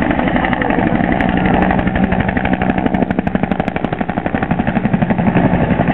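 Low-flying aircraft passing overhead, its engine and propeller (or rotor) making a loud, rapid, even pulsing that grows strongest in the middle and eases toward the end.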